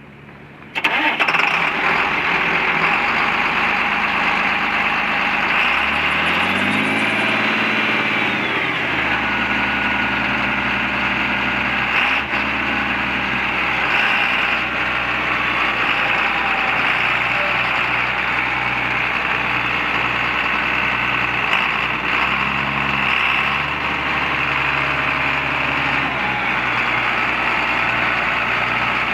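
1995 John Deere 8300 MFWD tractor's diesel engine starting up about a second in, then running steadily, its engine speed rising and falling a few times.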